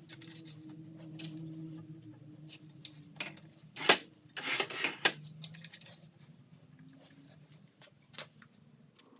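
Scattered light clicks and taps of small metal hardware being handled, the sharpest about four and five seconds in, over a faint steady hum.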